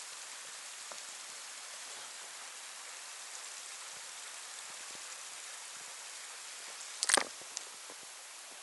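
Steady rushing hiss of flowing water from an open creek, with one short, sharp knock about seven seconds in.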